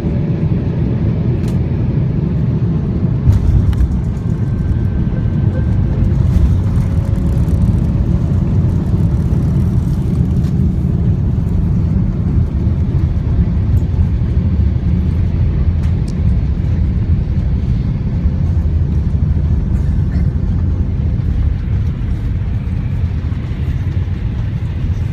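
Airbus A340 airliner's steady low rumble heard from inside the cabin as it lands.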